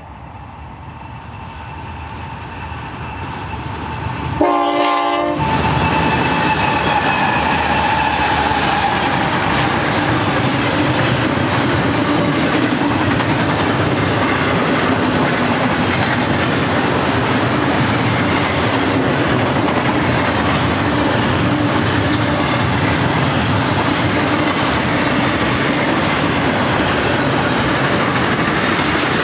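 BNSF double-stack intermodal train with GE diesel locomotives approaching and growing louder, with a short chime-horn blast about four seconds in as the locomotives reach the camera. After that, the container cars roll by in a steady, loud rumble of wheels on rail.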